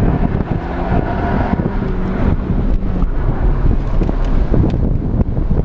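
Nissan 200SX S13's turbocharged CA18DET four-cylinder engine running under throttle, heard from inside the cabin, with wind buffeting the microphone. Revs are low, below where the turbo has spooled up, so the car is short of power.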